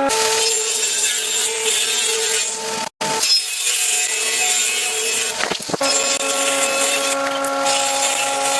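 Wood being sawn, with a steady machine whine over the rasp of the cut. It breaks off abruptly about three seconds in and then carries on.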